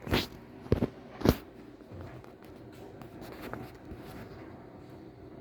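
Three sharp knocks or clicks within the first second and a half, then a faint steady hum.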